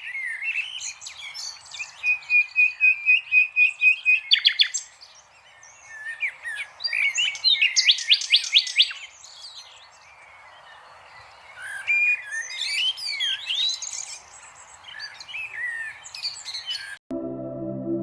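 Birds chirping and calling, with a run of rapid repeated notes and several fast trills. About a second before the end the bird sound cuts off abruptly and soft sustained background music begins.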